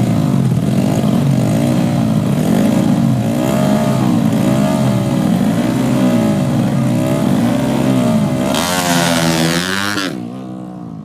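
Drag-race motorcycle engines being revved over and over, the pitch climbing and falling about once a second. Near the end a louder, rising run of revs cuts off suddenly, and a quieter engine sound carries on.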